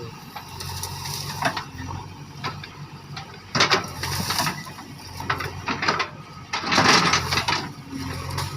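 JCB backhoe loader running steadily with a low engine hum, its working gear rattling and clanking. Two louder noisy bursts of scraping and grinding come about midway and near the end, as stones are moved.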